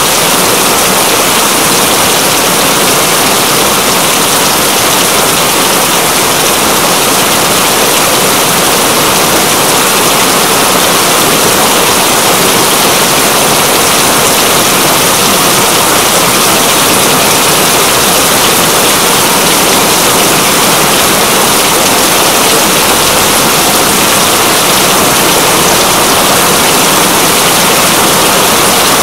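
Steady, heavy rain: a dense, even hiss of falling rain that stays the same throughout.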